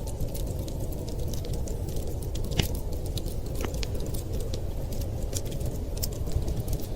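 Wood fire crackling, with scattered sharp pops, the loudest about two and a half seconds in, over a steady low rumble.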